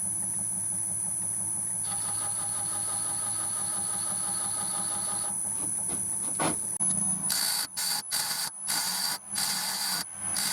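Wood lathe motor running with a steady hum. About seven seconds in, a turning tool starts cutting the spinning chestnut blank in short, repeated bursts.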